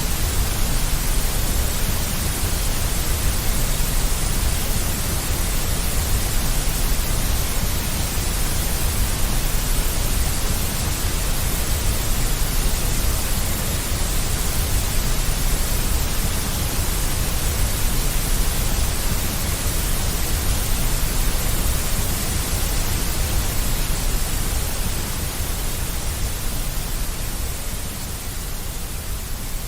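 Steady deep white noise, a dense hiss with a strong low rumble beneath it, growing slightly quieter near the end.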